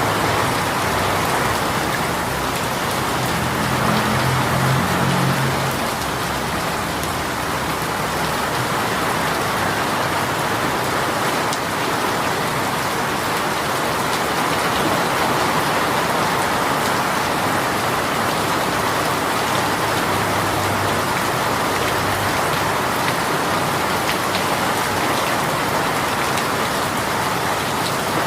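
Heavy shower rain falling steadily, a dense even hiss of drops on surfaces.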